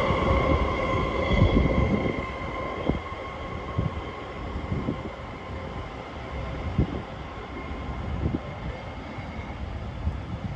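Sydney Metro driverless train moving away: the electric traction motor whine fades over the first few seconds while the rumble of wheels on rail dies down, with occasional short knocks.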